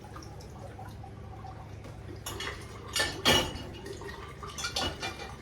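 Dishes clinking and clattering as they are set into a dishwasher rack: a cluster of clatters between about two and three and a half seconds in, and more near the end, over a steady trickle of water.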